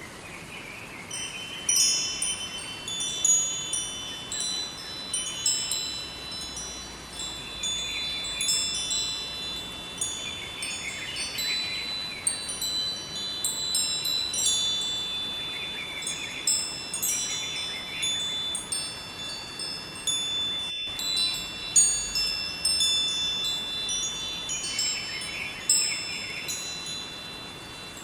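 Wind chimes ringing, with many high ringing tones struck at irregular moments and overlapping, over a faint steady hiss of running river water.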